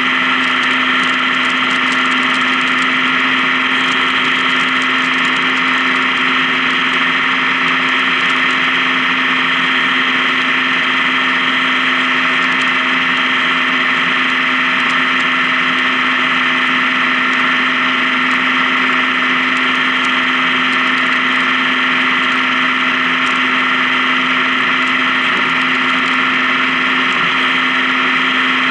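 Honda Gold Wing motorcycle engine running at a steady, unchanging pitch and level.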